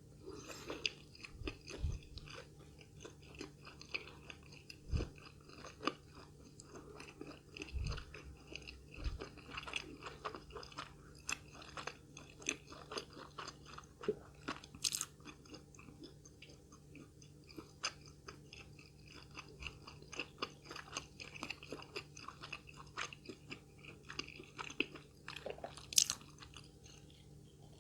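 Close-miked chewing of a fried snack, with irregular crunches and small wet mouth clicks, and a few low thumps spread through.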